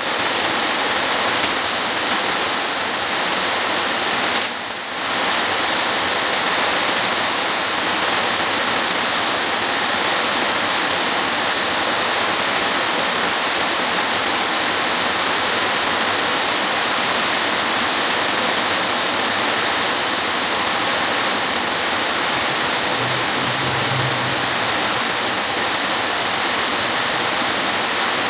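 Steady loud rushing hiss with no pitch or rhythm, briefly dipping about four and a half seconds in.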